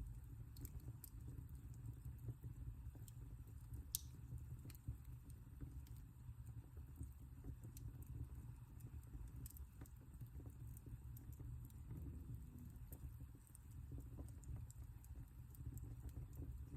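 Wood fire crackling in a fireplace: scattered small crackles and pops over a low rumble, with one sharper pop about four seconds in.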